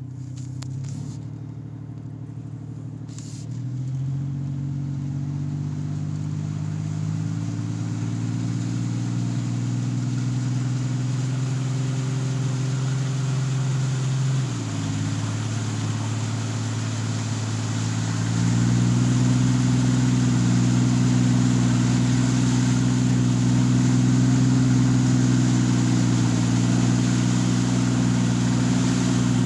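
Toyota Tundra pickup's engine running steadily while the truck drives through deep flood water, under a constant rushing hiss. The engine note steps up a few seconds in, dips briefly about halfway, then rises again and holds. Two short clicks come near the start.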